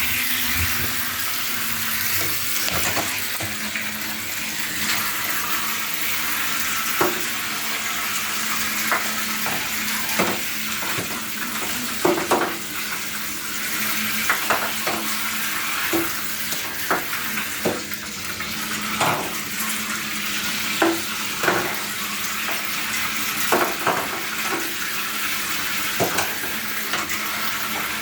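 Zuru Micro Boats toy boats running in water: a steady hiss of churning water with a faint, steady motor hum, and frequent light knocks scattered throughout.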